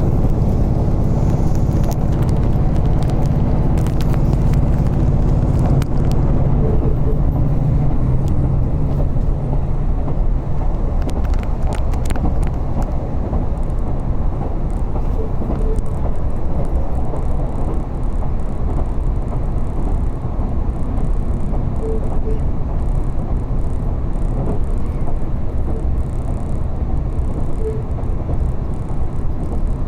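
Interior noise of a diesel railcar running along the line: a steady engine drone for the first several seconds that fades out, leaving the continuous rumble of wheels on the track with a few light clicks.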